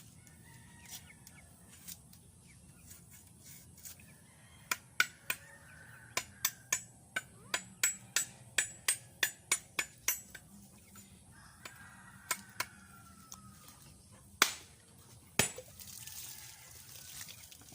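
A run of sharp knocks, about two a second for some five seconds, followed by a few single knocks.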